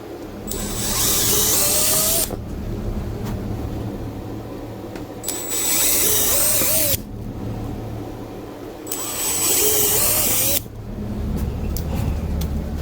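Power drill boring holes for a steel-plate sandwich beam. The drill runs under load in three bursts of about two seconds each, a few seconds apart, over a steady low hum.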